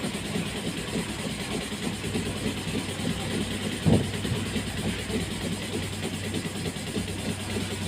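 Steady low mechanical hum of an engine-oil flush machine running its automatic pressure cycle on the engine. There is one brief knock about four seconds in.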